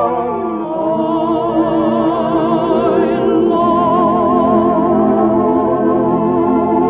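Operatic singing with orchestra, the voice holding long notes with a wide vibrato on the closing phrase of a romantic operetta song.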